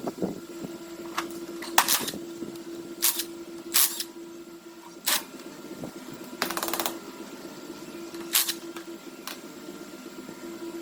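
Hand tools working on metal parts: a series of short sharp scrapes and clicks, with one longer rasping burst about six and a half seconds in, over a steady hum.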